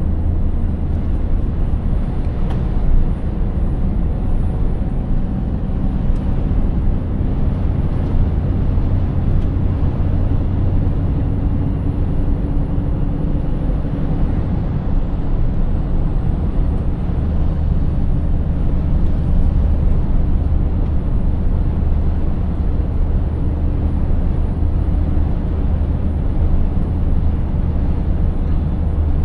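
Scania 590S truck's V8 diesel engine running steadily under way, a constant low drone mixed with road and tyre noise.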